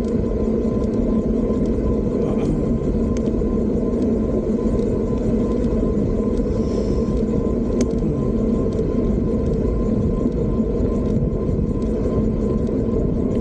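Steady low rumble of wind and road noise from riding an electric bike, with a faint steady high tone.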